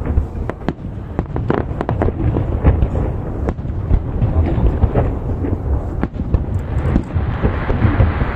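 Display fireworks shells bursting in quick succession: many sharp bangs and crackles over a continuous low rumble.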